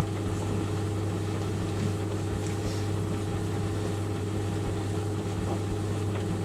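White Knight 38A compact tumble dryer running: a steady, even mechanical hum from its motor and drum.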